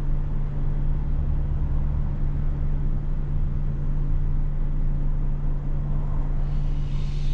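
Car engine idling steadily, heard from inside the cabin while the car stands in traffic, with a low, even hum. A brief hiss rises and fades near the end.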